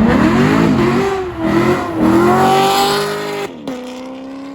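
Car engine revving hard as a car accelerates away, its pitch climbing and dipping through shifts. The revs cut off sharply about three and a half seconds in, leaving a lower engine note that slowly falls as the car passes.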